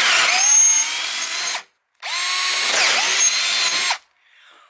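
Power drill boring 3/8-inch holes in wood in two bursts of a second and a half to two seconds each. Its motor whine rises as it spins up and drops off as the trigger is released.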